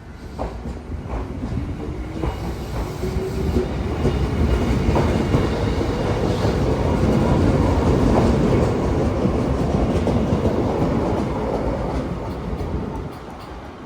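Chichibu Railway 5000 series electric train pulling out and accelerating past, its motor whine rising in pitch over the first few seconds while the wheels click over rail joints. It grows louder toward the middle, then fades near the end as the train moves away.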